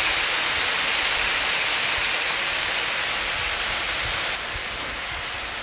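Heavy rain falling in a steady, dense hiss, dropping a little in level about four seconds in.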